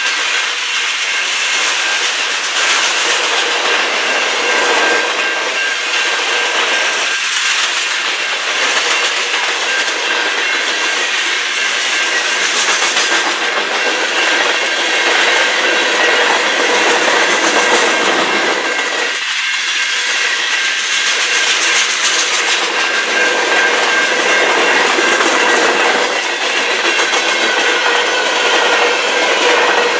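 Freight cars of a manifest train rolling steadily past, their steel wheels clattering over the rails, with steady high-pitched metallic tones running through.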